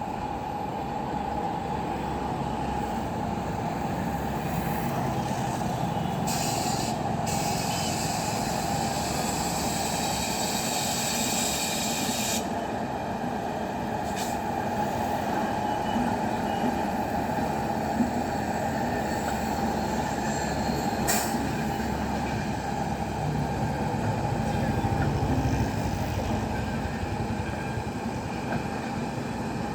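Express passenger train running into a station: a steady rumble of the coaches on the rails, with a thin steady squeal. A hiss starts about six seconds in and lasts several seconds, and a few sharp clicks come later.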